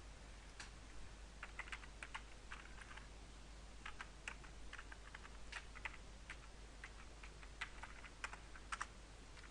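Typing on a computer keyboard: irregular runs of key clicks, as a new name is entered, over a faint steady low hum.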